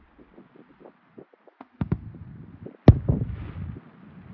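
Fireworks show shells bursting: two sharp bangs a little under two seconds in and a louder bang about three seconds in, each followed by low rumbling, with a faint crackle after the last.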